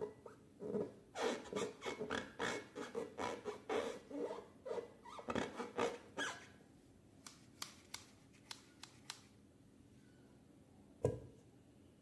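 Slime being squished and worked by hand: a quick run of short sticky squelches and crackles, then a few sharp ticks and a single thump near the end.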